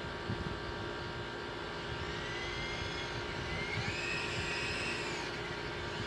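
Extreme S-8G RC helicopter's electric motors whining steadily. Partway through, a higher whine rises and falls in pitch.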